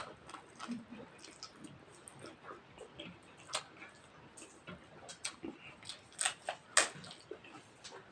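Close-miked eating sounds of rice and mutton curry: soft chewing with scattered sharp mouth clicks and smacks at irregular intervals.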